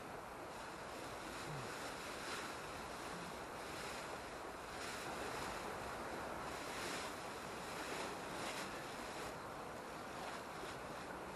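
Steady rushing noise that swells and eases several times.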